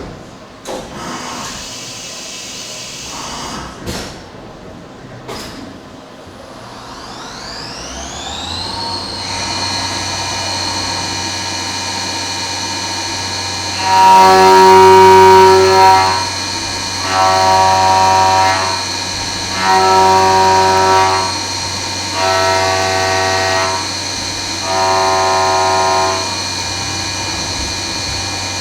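CNC mill spindle spinning up with a rising whine, then running at a steady high whine. From about halfway, the end mill cuts the 6061 aluminum billet in repeated passes, each a loud singing tone about two seconds long, coming roughly every three seconds. A few clicks and knocks come before the spin-up.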